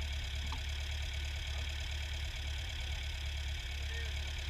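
Ford farm tractor engine running steadily with a low, even drone while it works a field.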